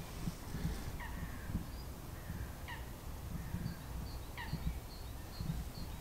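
Birds calling at a lake: a short call that drops in pitch comes three times, about a second and a half apart. From about halfway in, a quieter run of high chirps repeats about three times a second, over a low rumble.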